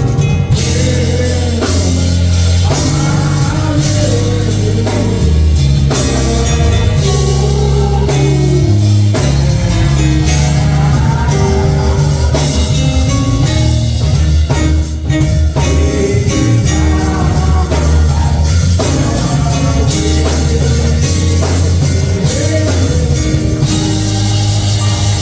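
Live church band music: a strong bass line with drums and guitar, with singing over it.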